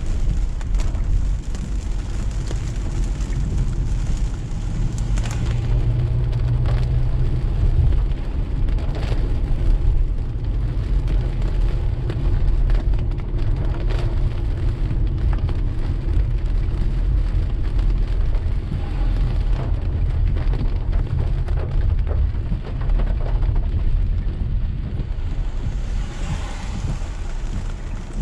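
Steady rain hitting a moving car, with scattered sharp drop impacts over a constant hiss and a heavy low rumble of road and engine noise. A short swell of higher hiss comes near the end.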